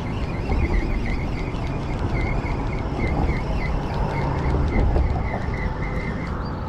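A bird calling a long series of short, high chirps, about three a second, that stops near the end, over a steady low rumble of traffic and wind.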